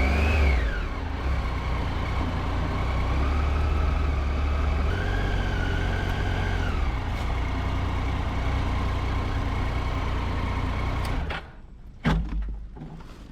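Triumph Tiger 800's three-cylinder engine running as the motorcycle rolls at low speed, with a high whine that rises and falls. About eleven seconds in the engine sound drops away abruptly, followed by a single thump.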